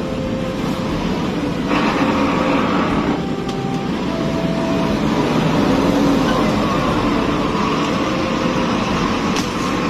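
Heavy truck engine running steadily with road noise.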